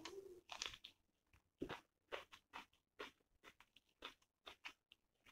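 Close-miked chewing of a mouthful of rice with raw onion: irregular crunches and wet mouth clicks, about two or three a second.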